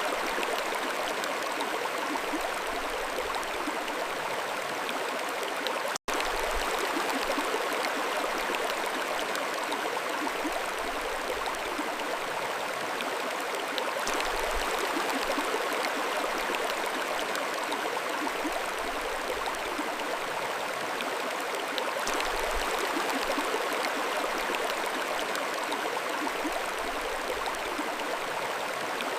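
Mountain stream flowing steadily, an even rush of water, with a momentary dropout about six seconds in.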